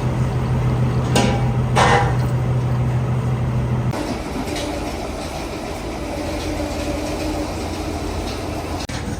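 Workshop machinery running with a steady low hum, with two sharp knocks at about one and two seconds in; about four seconds in the hum changes to a different, higher steady machine drone.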